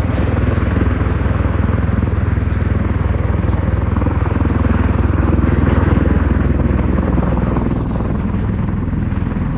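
USMC MV-22 Osprey tiltrotor flying, its twin Rolls-Royce turboshafts and big proprotors making a loud, steady, low throbbing drone. It grows a little louder around the middle and eases off near the end.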